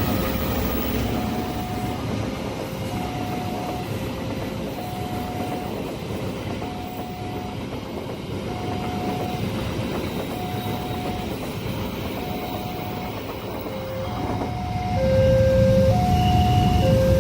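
Level-crossing warning alarm sounding a slow alternating two-note signal, about one note a second, over the rumble of a passing train. The noise swells again near the end.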